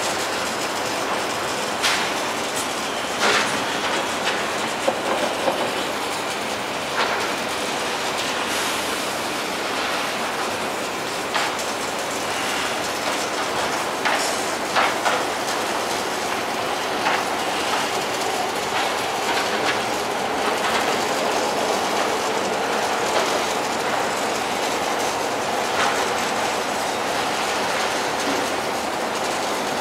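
Steady rumble of trains running on nearby tracks, wheels clicking over the rail joints, with scattered sharp metallic clanks.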